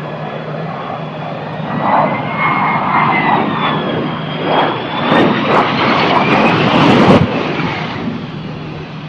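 Jet aircraft engine running, its high turbine whine gliding slowly up and down over a rushing roar that grows louder in surges, peaks at about seven seconds and then falls away.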